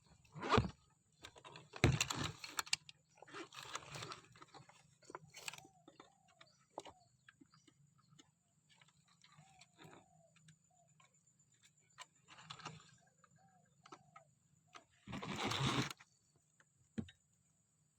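Several short bursts of rustling noise, the loudest about half a second in, near 2 seconds and around 15 seconds, over a faint steady high-pitched whine. A few faint short bird calls sound between them.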